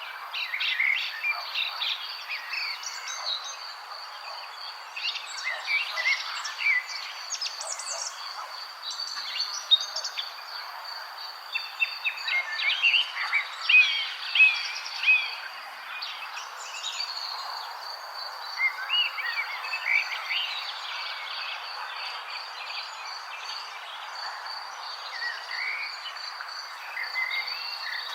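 A chorus of wild birds chirping and singing, many short overlapping calls and trills, busiest around the middle. A thin, steady high-pitched buzz runs underneath throughout.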